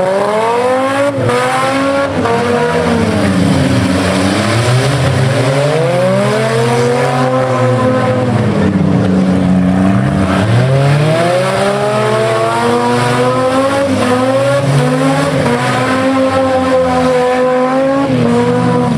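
Several six-cylinder demolition derby cars' engines revving at once, their pitch rising and falling again and again as the cars accelerate, back up and shove each other in the mud.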